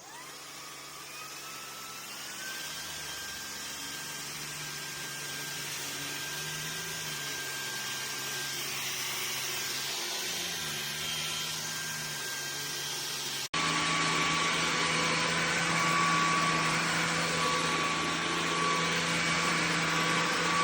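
Cordless stick vacuum cleaner switching on, its motor spinning up with a rising whine and then running steadily. About two-thirds of the way in there is an abrupt cut to a louder steady run with a different whine.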